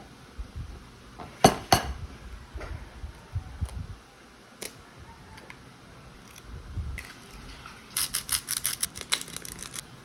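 Sharp clicks and light clinks of small hard objects being handled. Two loud clicks come close together about a second and a half in, and a quick run of about a dozen clicks comes near the end.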